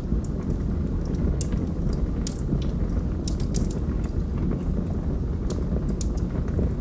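Logs burning in a fireplace: a steady low rumble of the flames with irregular sharp crackles and pops from the burning wood.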